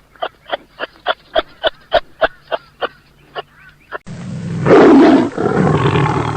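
A rapid run of short yapping barks, about four a second, growing fainter. About four seconds in, a big cat's loud, rough roar cuts in and is the loudest sound.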